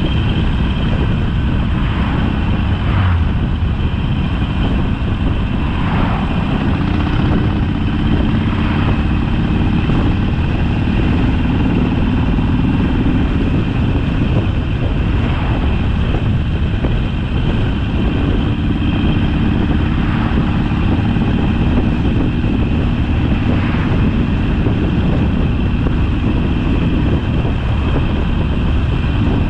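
Harley-Davidson Sportster's V-twin engine running on the move at a steady speed, its note drifting slightly up and down with the throttle, over a constant low road-and-wind rumble.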